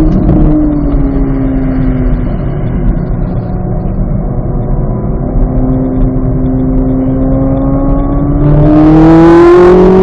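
2023 Chevrolet Corvette Z06's flat-plane-crank 5.5-litre V8 at speed on a track. The engine note falls over the first two seconds and holds low for a few seconds, then climbs steadily under acceleration. It gets loudest and harshest near the end.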